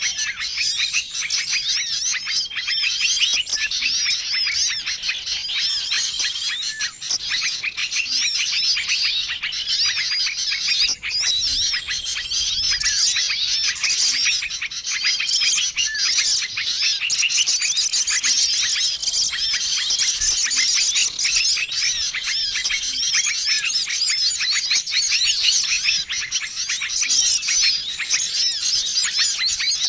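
Bird-lure recording of many small songbirds chirping and twittering at once in a dense, unbroken chorus, with a short level trill recurring every few seconds over the chatter. It is a noisy mixed-species call used to draw small wild birds in for trapping.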